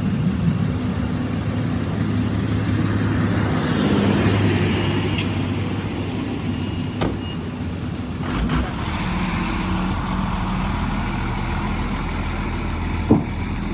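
Heavy truck's engine running steadily, with a couple of sharp clicks over it.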